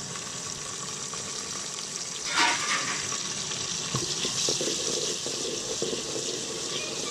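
Chopped tomato, green chillies and ginger-garlic paste sizzling in hot ghee with fried onions, a steady hiss with a sudden louder burst about two and a half seconds in.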